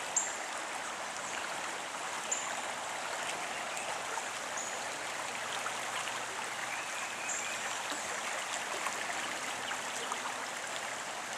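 Backyard creek running high and fast with a strong current, a steady rushing babble of water.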